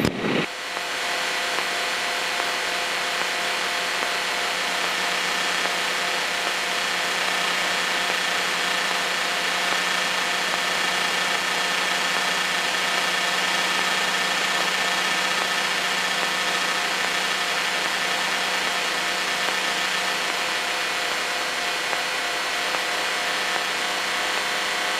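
Cessna 152's four-cylinder engine and propeller running steadily at takeoff power, heard from inside the cockpit as an even drone with several fixed tones.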